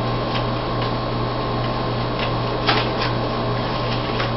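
Steady low hum and hiss, with a few faint short ticks from Pokémon trading cards being handled and laid down on a table.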